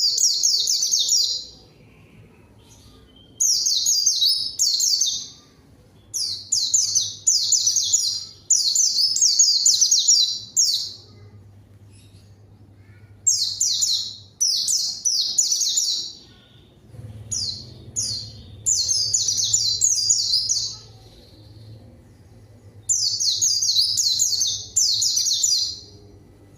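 White-eye (pleci) in full song: repeated phrases of rapid, high-pitched twittering, each a second or two long, broken by short pauses.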